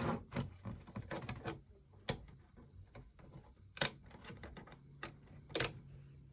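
Plastic clicks and knocks from handling an O2Cool 10-inch travel box fan's housing: a quick run of small clicks at first, then single sharp clicks at about two, four and five and a half seconds.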